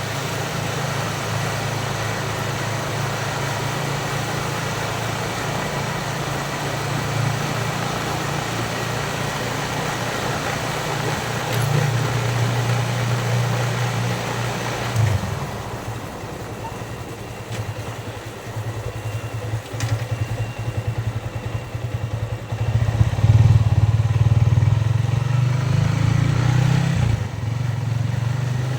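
Yamaha Vixion single-cylinder four-stroke motorcycle engine running under way, with wind rush on the microphone. About halfway through the wind noise falls away as the bike slows. Near the end the engine picks up again, with a brief drop in sound as the rider changes gear.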